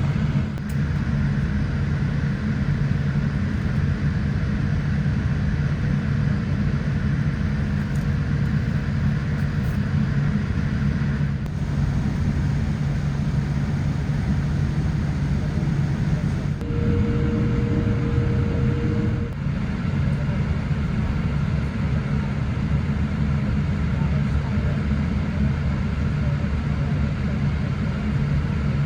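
Steady engine and airflow rumble inside the cabin of a Boeing 787-8 airliner, with abrupt small changes in tone a few times.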